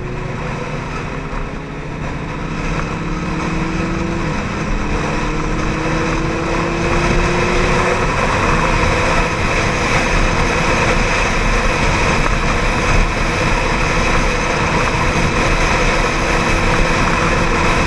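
Ducati 795 motorcycle's air-cooled L-twin engine pulling under way. The engine note rises, drops as the rider shifts up about four seconds in, rises again, then holds steady at cruise, while the rushing noise grows with speed.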